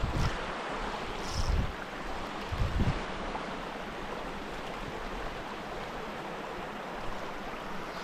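Steady rush of a small mountain stream running over rocks, with a few soft low thumps in the first three seconds.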